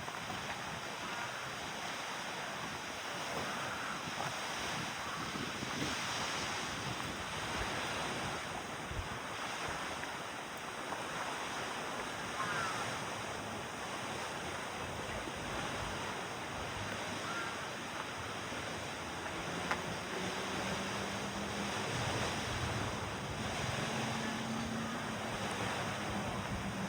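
Steady outdoor rushing noise of wind and lakeside air, with a few faint short chirps. A low steady hum comes in about two-thirds of the way through.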